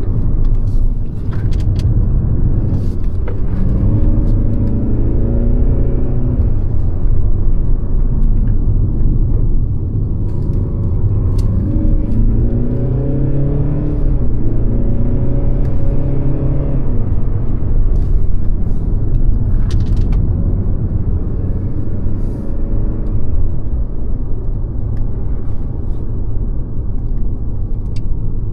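Mercedes-Benz C-Class (W206) driving, with a steady low rumble from engine and road. The engine note rises in pitch a few times as the car accelerates.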